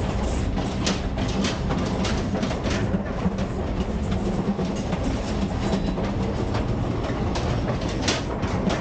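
Passenger train running, heard from the gangway between two carriages: a steady low rumble with frequent sharp metallic clanks and rattles.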